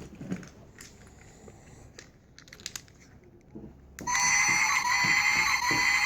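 Small clicks and knocks of toy pieces being handled. About four seconds in, a battery-powered toy train's small electric motor switches on and runs with a steady whirring gear noise.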